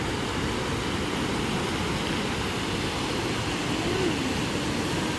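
Steady rushing noise, with a faint distant voice about four seconds in.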